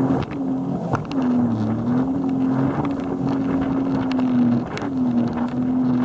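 Motorboat engine running at a steady pitch that sags briefly a couple of times, with wind noise on the microphone.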